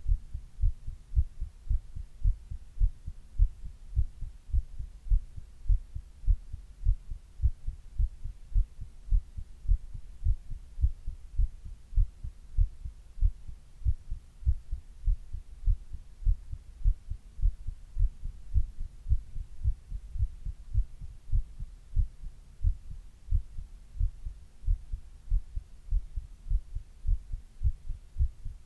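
A person's heartbeat recorded close up, a steady even rhythm of low thumps at resting pace.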